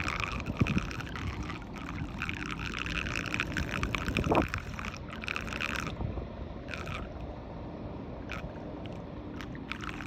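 Water splashing and gurgling in a blocked drain as it is cleared, in irregular rushes, with a couple of knocks near the start and about four seconds in.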